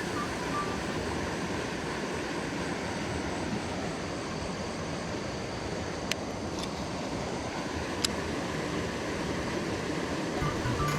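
Steady rushing noise of flowing stream water, with a couple of sharp clicks about six and eight seconds in.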